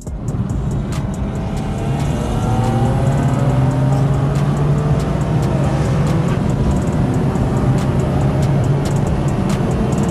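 Car engine at full throttle in a roll race, coming in suddenly and rising in pitch over the first few seconds, then holding high.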